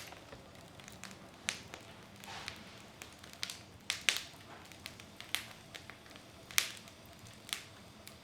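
Wood fire in a fireplace crackling. Burning logs give irregular sharp pops and snaps over a faint steady hiss, the loudest snaps about four and six and a half seconds in.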